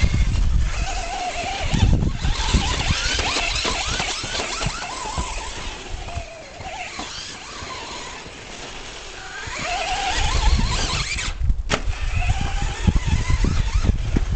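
Radio-controlled Traxxas Slash 4x4 trucks driving on a dirt track: electric motor and gear whine rising and falling with the throttle, with tyre and dirt noise. It is louder about two seconds in and again from about ten seconds, quieter in between, and cuts out briefly just before twelve seconds.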